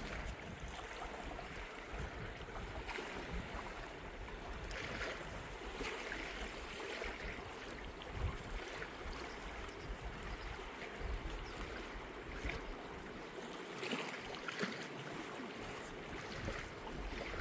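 Flowing river water rushing steadily, with gusts of wind buffeting the microphone in uneven low rumbles.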